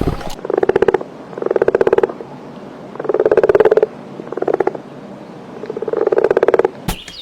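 A frog croaking: five loud pulsed calls, each lasting up to a second, with short pauses between them.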